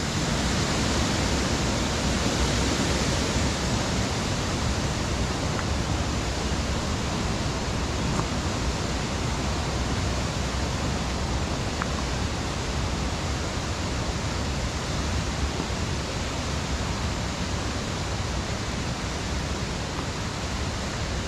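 Waterfall rushing steadily, an even hiss of falling water that does not change.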